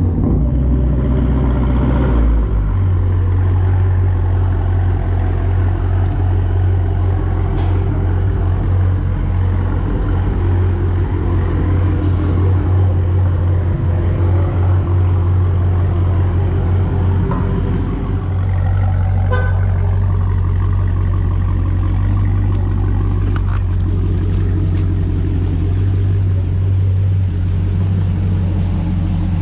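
Dodge Hellcat's supercharged 6.2-litre HEMI V8, its mufflers deleted, idling with a loud low drone. It settles from a higher speed to a steady idle about two seconds in.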